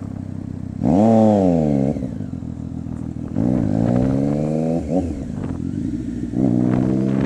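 2015 Triumph Street Triple 675's inline three-cylinder engine idling through an unbaffled aftermarket exhaust, then blipped three times: two short revs that rise and fall back to idle, and a longer rev near the end that keeps climbing.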